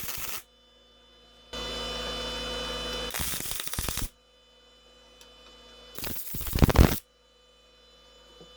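MIG welder tack welds on steel: a steady electrical hum for about a second and a half, then two short bursts of arc crackle, each about a second long and some three seconds apart, the second louder.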